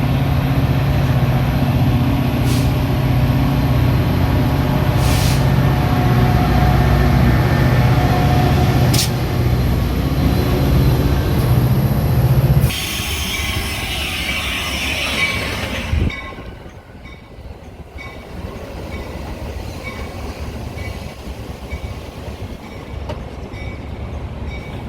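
Metra commuter train at a station: a steady low mechanical hum with a few sharp clicks. About halfway through it changes abruptly to a hiss, then to a quieter rumble.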